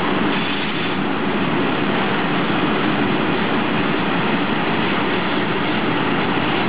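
Freight train of covered hopper wagons rolling past at a steady speed: a continuous, even noise of wheels running on the rails.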